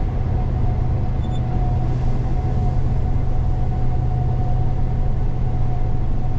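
Gleaner combine running steadily while harvesting soybeans, heard from inside the cab: a constant low drone with a thin, steady whine above it.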